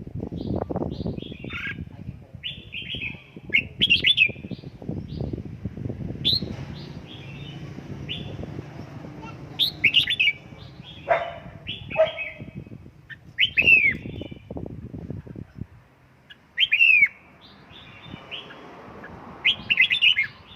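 Red-whiskered bulbul giving short, sharp chirps and calls in scattered bursts, several of them quick falling sweeps. A low rumbling noise runs underneath and stops about three-quarters of the way through.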